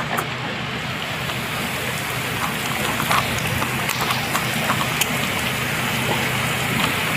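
Heavy rain falling steadily, with a few sharp ticks scattered through it and a low steady hum underneath.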